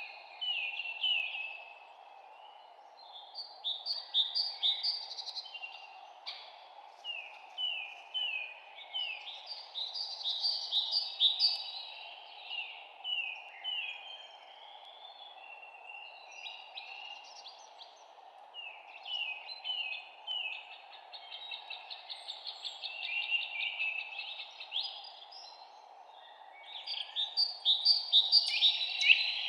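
Songbirds singing in repeated phrases of quick, falling chirps, one phrase every few seconds, busiest near the end. A steady even hiss sits underneath.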